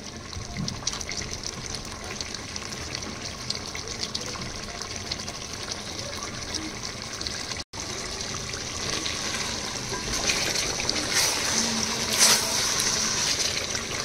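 Chicken do pyaza frying in a pan with onion, capsicum and tomato: a steady sizzle with fine crackles. It drops out for an instant about halfway through and comes back a little louder, flaring up briefly twice near the end.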